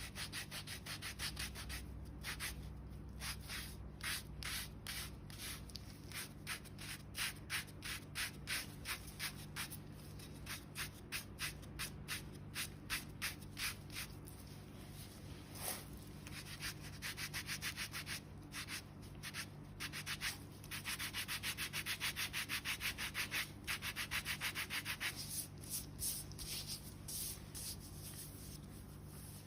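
Foot file rasping hardened dead skin and calluses on the sole of a foot in repeated back-and-forth strokes, about two a second, quickening to a fast, dense scrubbing for a few seconds near the end.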